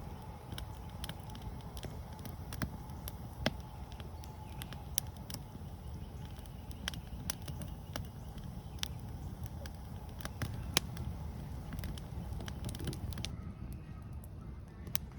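Wood campfire crackling, with sharp, irregular pops and snaps over a low steady rumble.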